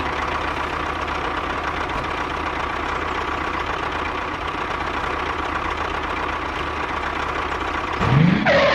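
Homemade mini tractor's small motor running steadily with a faint whine. Near the end a short, louder rising sweep cuts in.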